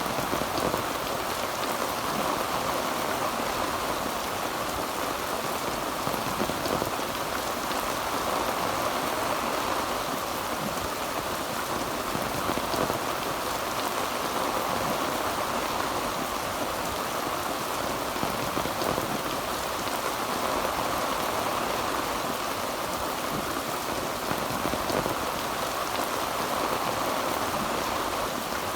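Heavy rain falling steadily on a tin roof, an even, unbroken patter with no thunder.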